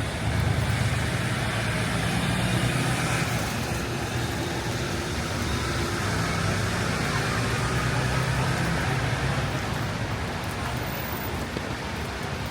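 Road traffic in heavy rain: a vehicle engine running close by, with a low rumble that swells about half a second in and again midway, over the steady hiss of rain and wet road.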